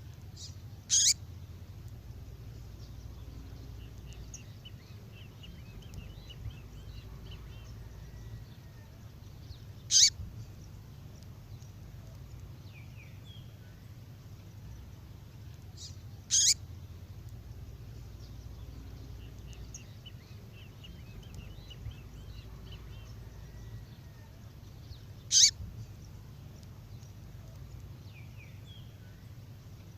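A songbird female call: a loud, short, sharp call four times, some six to nine seconds apart, with faint twittering trills in between, over a low steady hum.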